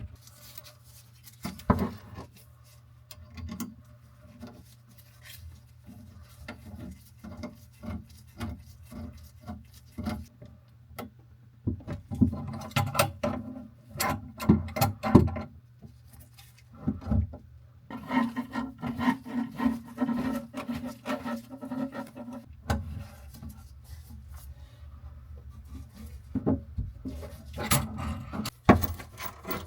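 Hands working in a bathroom sink cabinet: scattered knocks, clicks and rubbing as flexible faucet supply hoses are handled and their nuts threaded on hand tight. A low steady hum runs underneath.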